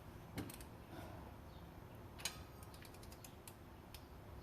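A few light, sparse clicks from a ratchet wrench being worked on an engine bolt during a torque-tightening sequence, the sharpest about two seconds in.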